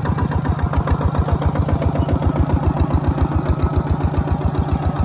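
Farm machine's engine running steadily with an even chugging beat, about eight beats a second.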